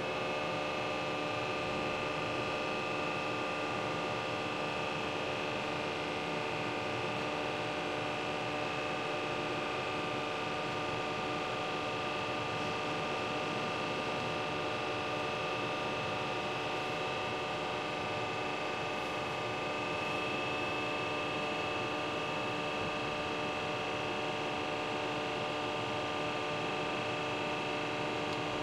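Böhringer NG200 CNC lathe running under power, a steady hum and whine of its motors and pumps with several fixed tones that hold unchanged throughout.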